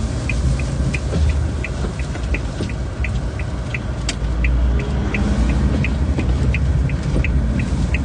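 Vehicle engine running with a steady low rumble, over a short high beeping repeating about three times a second.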